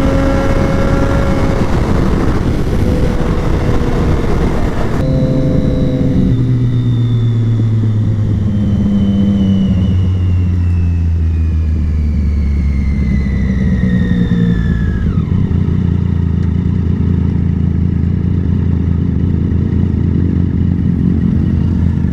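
Sport motorcycle engine running at speed under a rushing noise that cuts off suddenly about five seconds in. The engine note then falls in several steps as the bike slows and shifts down, and settles to a low, steady idle about fifteen seconds in.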